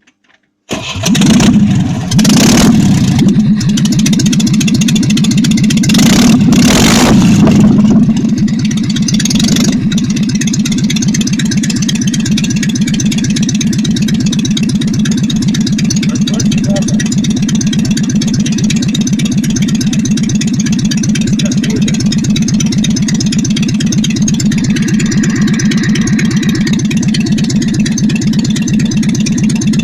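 ZMZ-402 four-cylinder carburettor petrol engine starting with no exhaust system fitted, so the bare exhaust ports bark straight out. It runs loud with a few surges for the first several seconds. About eight seconds in it settles to a steady, fast-pulsing idle.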